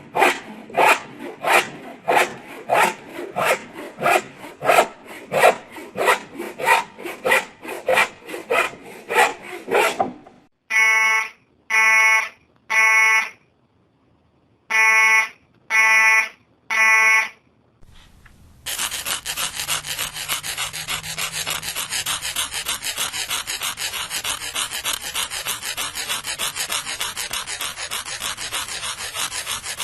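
A run of stock sound effects: a rhythmic scraping stroke repeated about twice a second, then six electronic alarm beeps in two groups of three, then a fast, continuous rasping.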